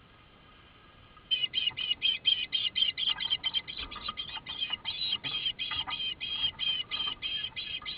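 A bird chirping in a rapid, even series of high calls, about four to five a second, starting a little over a second in after a faint steady hum.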